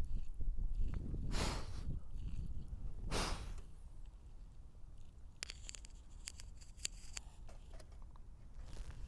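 Small campfire of burning wood crackling, with a quick run of sharp pops about five to seven seconds in. Two brief whooshes come about one and a half and three seconds in, over a low rumble.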